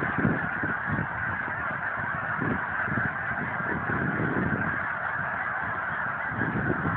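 A very large flock of birds calling all at once: a dense, continuous chorus of many overlapping calls that never breaks.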